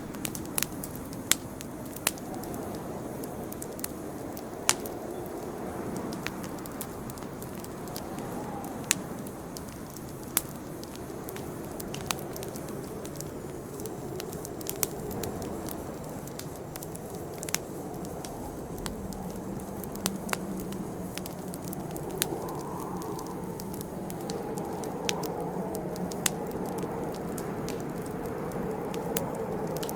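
Campfire burning, with irregular sharp pops and crackles every second or two over a steady low rush of the flames.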